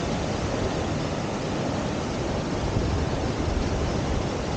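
Steady rush of whitewater from a river standing wave on the Deschutes River.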